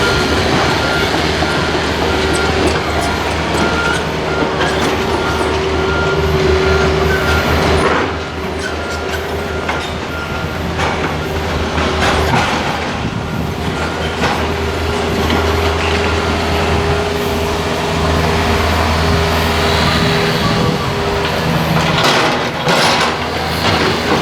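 Seibu Tamagawa Line electric train running, a steady low hum with a held whining tone over it and a few clacks from the wheels.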